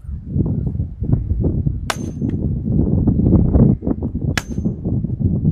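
Hammer striking a metal well pipe as it is driven into the ground: two sharp clangs about two and a half seconds apart, each with a brief ring. Low rumbling wind noise on the microphone runs underneath.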